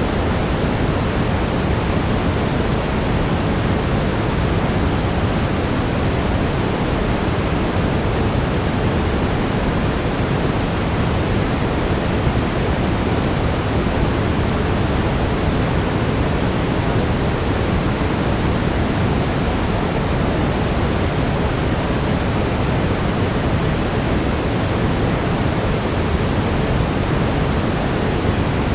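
Steady brown noise: an even, unchanging rushing hiss, deepest and strongest in the low end and thinning toward the top.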